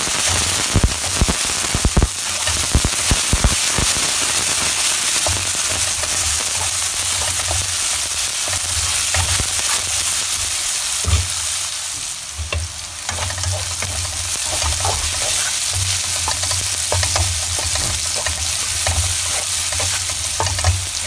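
Strips of prickly pear pads (nopales) sizzling in hot oil in a frying pan and being stirred with a spatula, with a steady hiss and many scattered pops.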